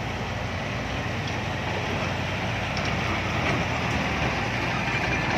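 Dump truck's diesel engine running, growing gradually louder as it comes closer.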